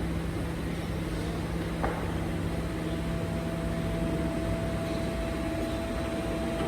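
BYD electric garbage truck running with a steady electric hum; a second, higher steady tone joins about two and a half seconds in, over traffic-like background noise.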